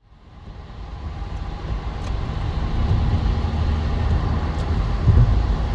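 Narrowboat's diesel engine running steadily at low revs while under way. It fades in over the first second or two.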